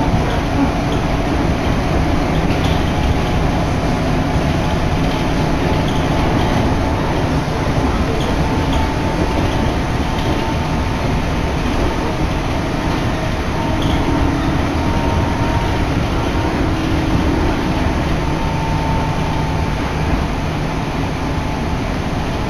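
Electric local train on the Shin'etsu Line running, heard from inside the carriage: a steady rumble of wheels and running noise, with faint steady whines that come and go.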